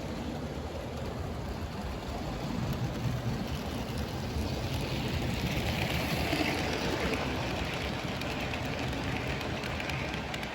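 HO-scale model train running on Kato track: a steady rumble of wheels and motor, growing louder around the middle as it comes closer.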